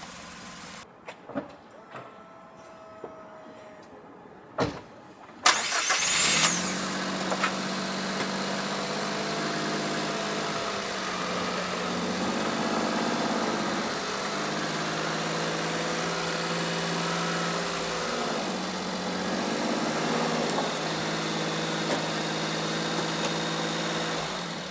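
A few small clicks, then a light truck's engine cranks and starts about five seconds in, and idles steadily, its idle speed shifting up and down a few times.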